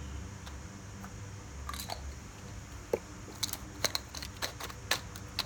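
Irregular small clicks and knocks of objects being handled, sparse at first and more frequent from about halfway through, over a low steady hum.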